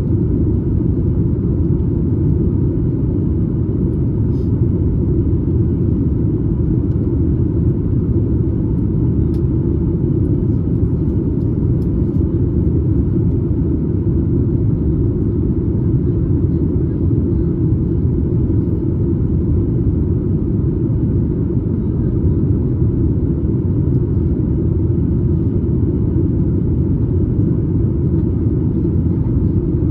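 Steady, low cabin rumble inside a Boeing 737 MAX 8 airliner in flight, unchanging throughout, heard from a window seat just behind the wing.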